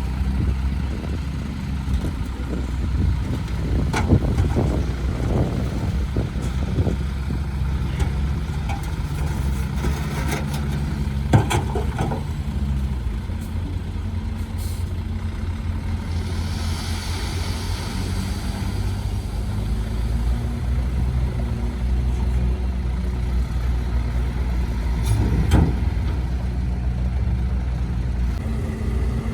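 Heavy dump truck's diesel engine running steadily, its note dropping about halfway through. Scattered clanks and knocks come through, and there is a short hiss of air near the middle.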